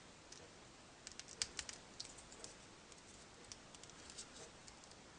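Faint quick clicks and taps of folded paper origami pieces being handled, bunched together between about one and two and a half seconds in, then a few scattered ticks.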